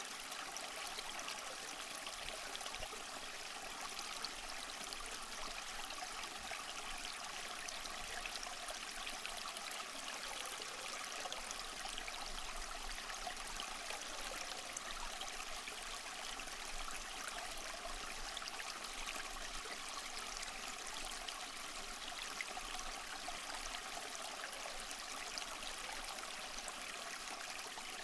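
Small waterfall splashing and trickling steadily over rocks, a light, even rush of water with many small splashes and little deep rumble.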